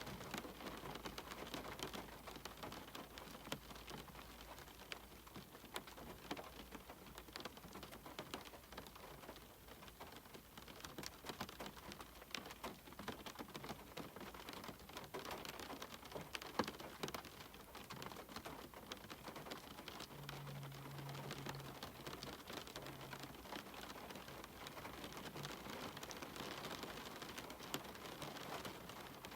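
Steady rain with many separate drops tapping close by, as on a cabin window.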